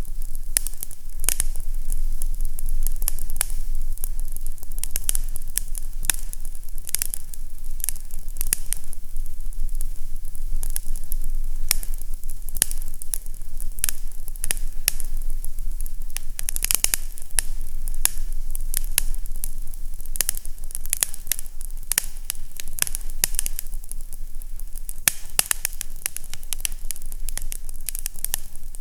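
Fireplace fire crackling, with frequent sharp pops and snaps over a low steady hum.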